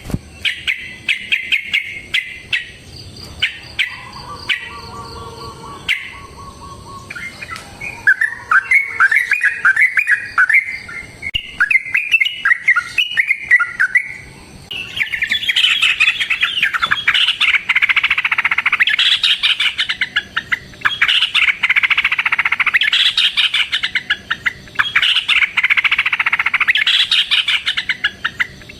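Yellow-vented bulbul singing in quick runs of short chirping notes. About halfway through, the notes run together into a long, dense, unbroken chatter.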